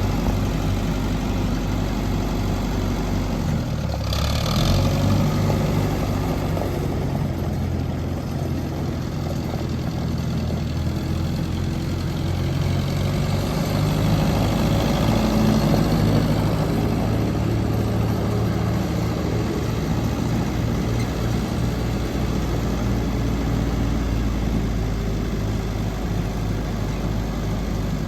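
Allis-Chalmers 170 tractor's engine running, its note shifting briefly about four seconds in and growing a little louder around the middle.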